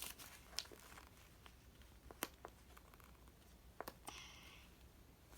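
Near silence with a few faint, sharp clicks and taps from letter pieces being handled, and a brief soft rustle near the end.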